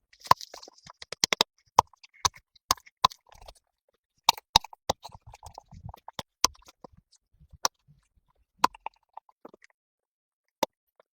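A series of irregular sharp clicks and knocks, with silence between them.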